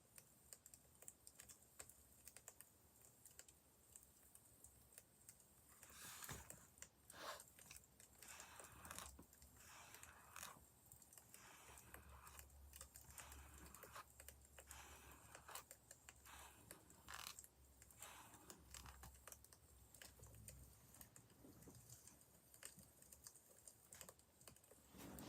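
Burning firewood crackling: faint, irregular small pops and clicks, with a few denser bursts of crackling a little after the first quarter.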